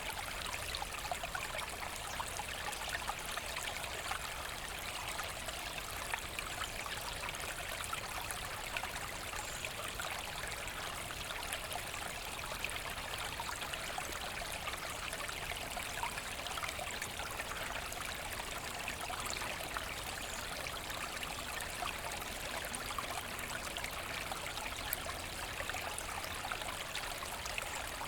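A small forest brook running steadily over stones, with a continuous babble and fine splashing.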